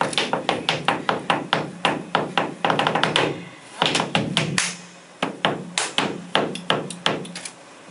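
Flamenco dancer's zapateado footwork: rapid sharp heel-and-toe strikes of nailed shoes on a wooden stage, several a second, with a short break about three seconds in, then more strikes that stop shortly before the end.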